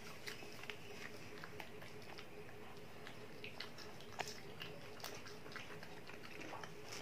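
Faint mouth sounds of chewing and biting fried chicken lollipop: irregular small clicks and smacks, the sharpest a little after four seconds in, over a steady low hum.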